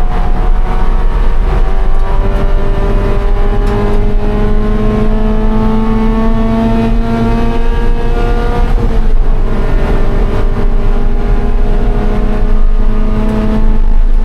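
2013 Scion FR-S's flat-four engine pulling under load, its pitch climbing steadily for about nine seconds, dropping at an upshift, then climbing again.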